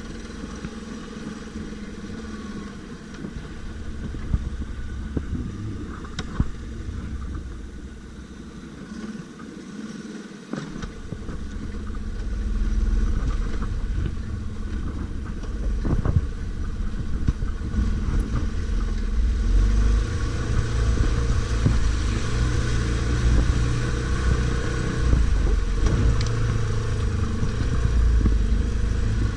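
Stels Guepard 850 ATV engine running off-road. It is quieter at first, then louder about twelve seconds in and again about twenty seconds in, with a few sharp knocks along the way.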